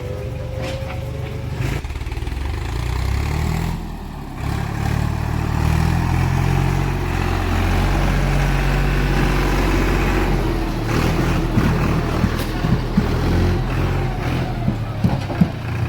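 Heavy diesel engine working under load, revving up a few seconds in, holding high revs for several seconds, then dropping back. Near the end, a string of sharp knocks and clanks.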